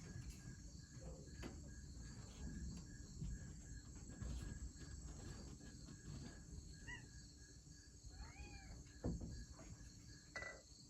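Faint, steady chorus of crickets and other night insects, with one insect's pulsing chirp repeating throughout. A couple of short bird calls come about two-thirds of the way through, over a low background rumble, and two soft knocks follow near the end.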